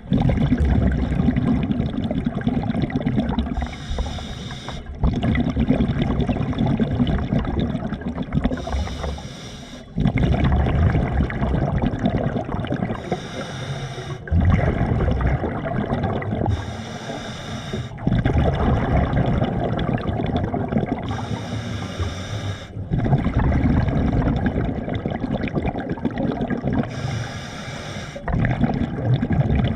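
Water sloshing and gurgling close around the microphone, in stretches of a few seconds that change abruptly.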